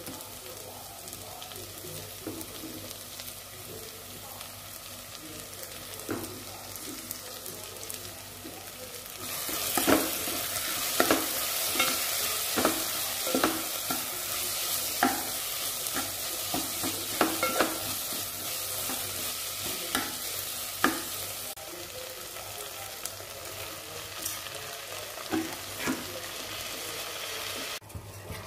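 Chopped vegetables and spices frying in an aluminium pot with a steady sizzle. The sizzle grows louder about nine seconds in, as a plastic spatula stirs them and scrapes and knocks against the pot again and again. It eases off again near the end.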